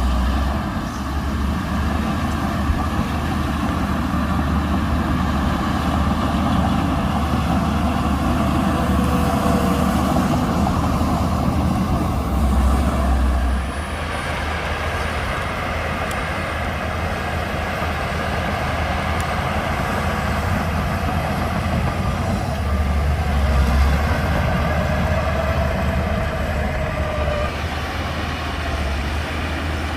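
Shantui DH17C2 bulldozer's diesel engine running steadily under work load. The note drops back a little about halfway through and picks up again shortly after.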